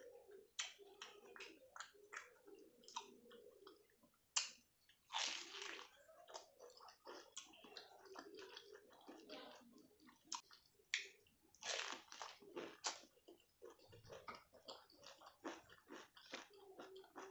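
Close-miked chewing and wet mouth sounds of a person eating rice, dal and boiled cabbage by hand: many small smacks and clicks, with a few louder crunchy bites about five and twelve seconds in.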